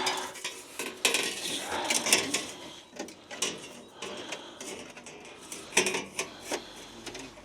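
Sheet metal being handled and fitted: scraping and rubbing for about the first three seconds, then a few separate metallic clinks.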